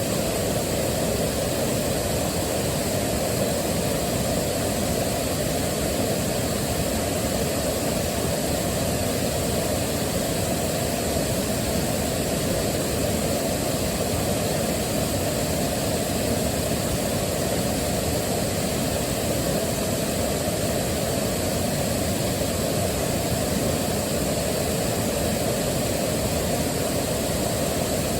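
Waterfall rushing steadily, an unchanging wash of falling water heaviest in the low and lower-middle range.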